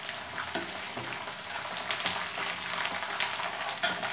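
Mint and coriander leaves deep-frying in hot oil in a kadhai: a steady sizzle, with scattered scrapes and taps of a metal slotted spoon stirring them against the pan.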